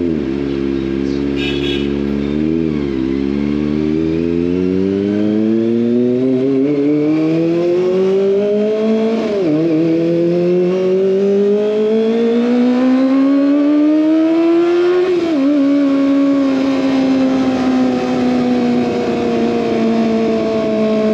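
Kawasaki ZX25R's 250 cc inline-four running through an SC Project exhaust. The engine pulls up through the revs in two long, steady climbs, each ending in an upshift that drops the pitch sharply, then eases off with the pitch slowly falling.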